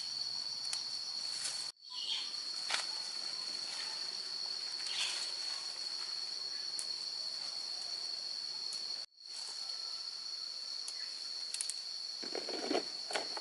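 A steady, high-pitched insect chorus droning without a break, apart from two instant dropouts, with a few light clicks and a short rustle near the end.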